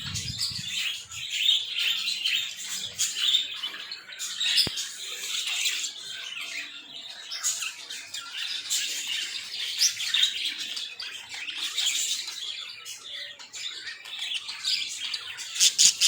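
Small birds chirping and twittering without pause, a dense, high-pitched chatter of many short calls.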